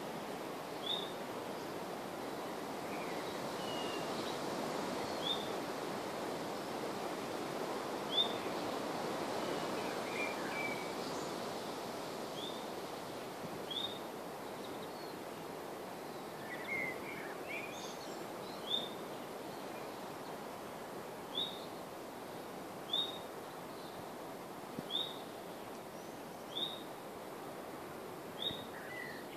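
A bird repeating a short high chirp every second or two, with a few other bird calls, over a steady rushing of wind in the trees that swells a few seconds in.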